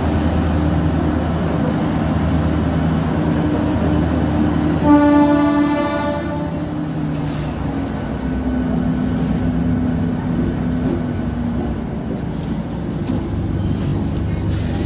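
Diesel multiple unit train's engine running steadily as the train pulls out of a station, with a train horn sounding once for about a second and a half, about five seconds in.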